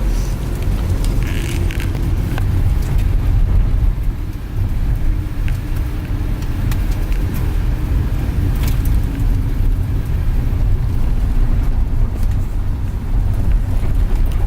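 Van driving along a road, heard from inside the cabin: a steady low rumble of engine and tyres, with a few light clicks and rattles.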